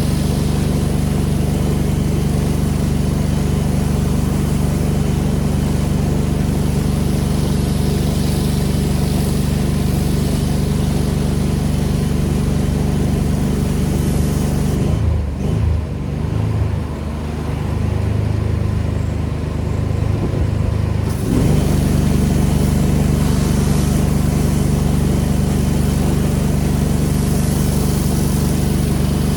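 Pressure washer's engine running steadily under the loud hiss of the high-pressure spray. About halfway through, the spray stops for around six seconds while the engine keeps running with its pitch dipping and wavering, then the spray starts again.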